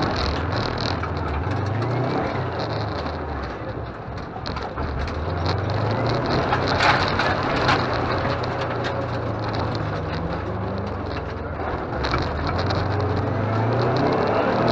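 Rally car engine heard from inside the cabin, its pitch rising and falling with throttle and gear changes, under a loud rattling, crackling road and cabin noise, with a louder burst of crackle about halfway through.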